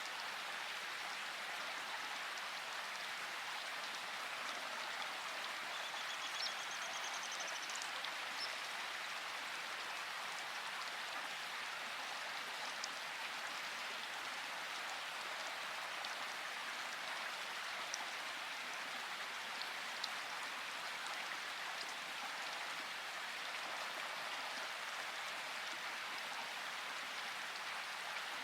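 Steady rain falling, an even hiss, with a few slightly louder single drops now and then.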